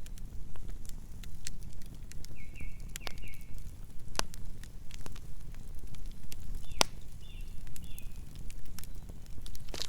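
Burning wood fire crackling: irregular sharp pops and snaps over a steady low rumble of the flames. Short high squeaks come twice, about two and a half seconds in and again around seven and a half seconds.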